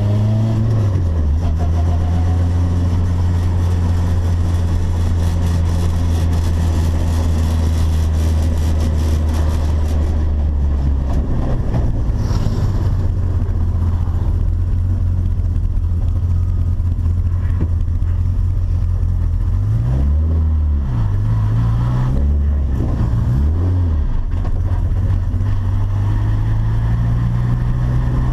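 Turbocharged VW Gol engine running under way. It drops in pitch at the start, holds a low steady drone for about ten seconds, revs up and down twice in quick succession a little past the middle, and climbs again near the end.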